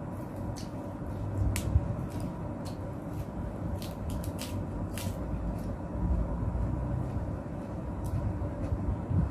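Close-up chewing of crisp lettuce leaves: irregular sharp crunches and mouth clicks over a steady low background hum.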